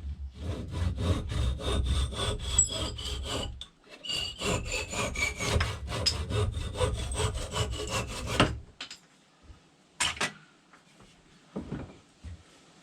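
Hand saw cutting through hardwood in quick back-and-forth strokes, trimming off the excess end of a new spotted gum maul handle. There are two runs of strokes with a short pause between them, then a few light knocks near the end.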